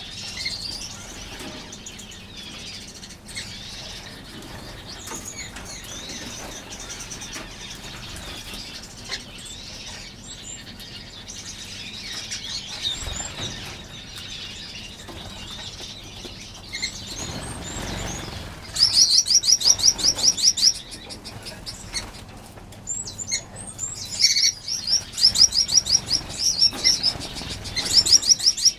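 A flock of aviary finches chirping and twittering in high, overlapping calls. About two-thirds of the way through, and again near the end, one bird breaks into quick runs of loud, rapidly repeated chirps.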